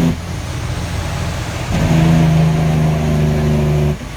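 Heavy truck running with a steady low rumble, and a steady pitched tone that cuts off just after the start, then sounds again for about two seconds, starting and stopping abruptly.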